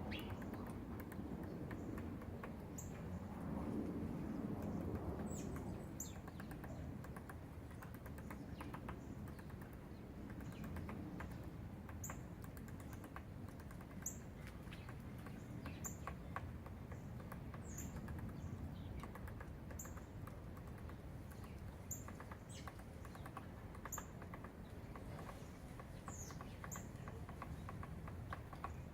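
A woodpecker pecking at wood: irregular runs of quick taps, thicker in places, with short high bird chirps every couple of seconds.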